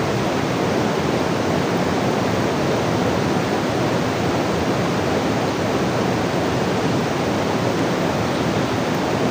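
Steady rushing of water, an even unbroken hiss and roar at a constant level.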